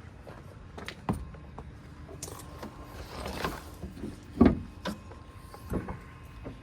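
Scattered knocks and clatter of things being handled around a vehicle, with a short rush of noise about three and a half seconds in and the loudest thump about a second later.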